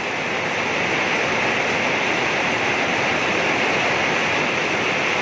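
Rain falling steadily on a rooftop, an even hiss that swells a little in the first second.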